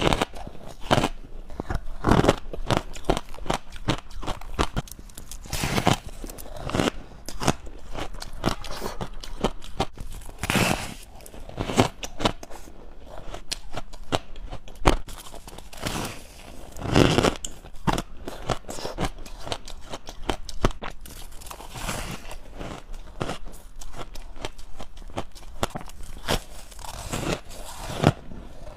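Close-up crunching and chewing of frozen white frost ice: many irregular crisp crunches and crackles, bite after bite.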